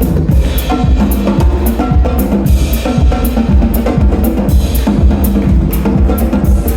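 Drum kit playing a fast, steady rhythm of bass drum and snare strikes with rimshots, over sustained low pitched tones in the music.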